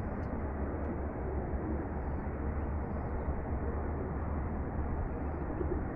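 Steady outdoor background noise with a low rumble, and a few faint, high bird chirps scattered through it.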